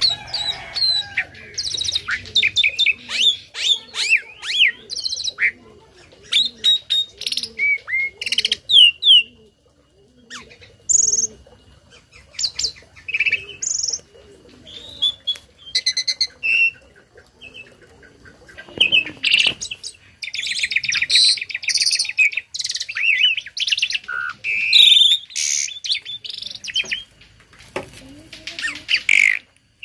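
Asian pied starling singing a long, varied song of sharp whistles, chirps and pitch glides, broken by rapid buzzy rattles, with a dense rattling stretch about two-thirds of the way in. The song is packed with phrases copied from other birds.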